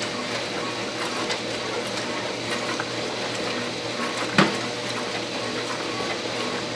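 Brastemp 12-place stainless-steel dishwasher running, water spraying and circulating steadily inside, with one sharp knock about four seconds in.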